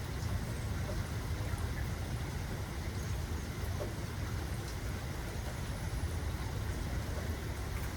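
Steady rain falling, a continuous even hiss with a few faint scattered drop ticks, over a constant low rumble.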